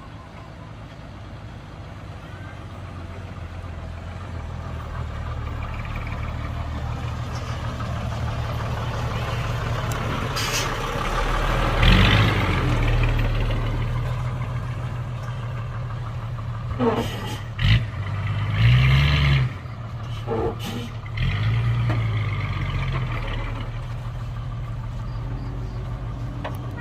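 Heavy diesel engine of earthmoving machinery running, growing louder over the first ten seconds or so. In the second half it revs briefly a few times, with several sharp clanks.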